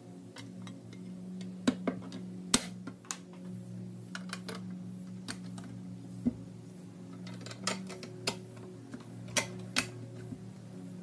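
Painted pressed-steel toy truck parts clicking and tapping against each other as they are handled and fitted together: a dozen or so sharp, light metallic clicks scattered irregularly over a steady low hum.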